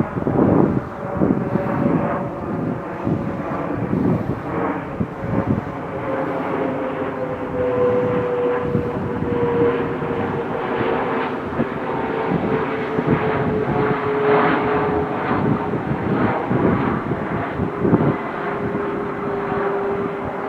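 A full-size airplane flying overhead: a steady engine drone whose pitch slowly falls as it passes. It peaks at about 70 dB on a sound level meter.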